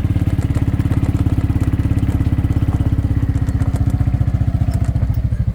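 Engine of a small open farm vehicle running steadily, with a fast, even chugging pulse.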